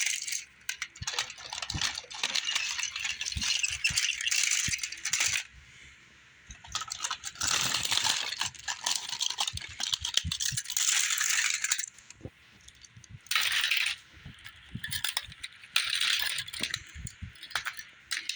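Rattling and clinking of toy trains being handled and moved about, in bursts of clatter a few seconds long with short pauses between.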